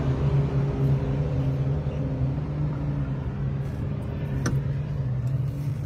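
Armored Brabus G-wagon's engine idling steadily with a low hum. About four and a half seconds in there is a single sharp click as the roof escape hatch is pulled shut.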